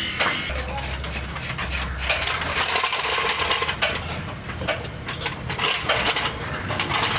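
Hand tools working on metal car parts: a run of irregular clicks and clinks, with a low hum briefly near the start.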